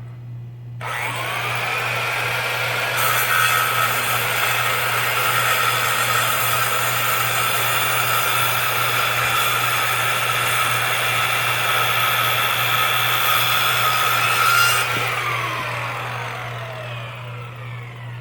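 Electric power tool with a spinning blade spinning up, cutting steadily for about twelve seconds, then released and winding down with a falling pitch.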